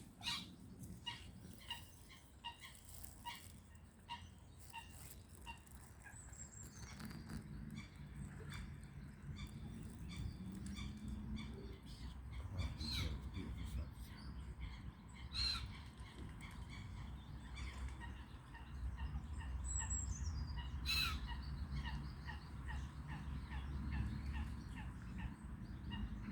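Birds chirping and calling: a run of short repeated chirps at first, then scattered sharper calls and two falling whistles, over a faint low rumble.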